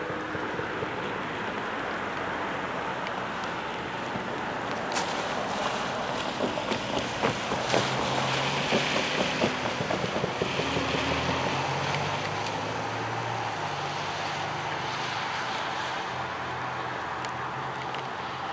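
A Norfolk Southern double-stack container freight train moving away, heard as a steady rumble. A run of sharp clicks comes about five to eleven seconds in.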